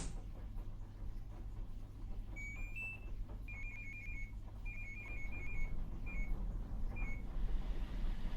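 Washing machine control panel beeping: a string of short high electronic beeps, some single and some in quick runs of four or five, as its buttons are pressed. A steady low hum lies under them.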